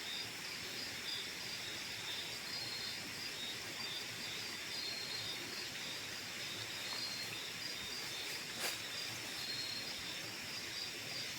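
Steady outdoor night ambience of insects chirring, with a continuous high-pitched drone. One faint click sounds about three-quarters of the way through.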